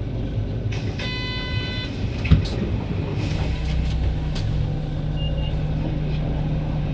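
Interior of an Isuzu Erga city bus standing at a stop with its diesel engine idling; about a second in a short electronic chime sounds, a sharp thump follows just after 2 s, and from about 3 s a steady low hum sets in under two short high beeps.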